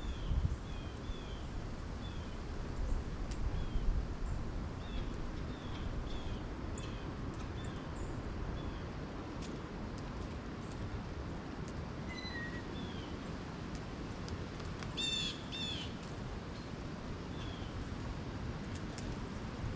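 Wild birds calling: many short, high, falling chirps, then a harsher double call about fifteen seconds in, over a low background rumble.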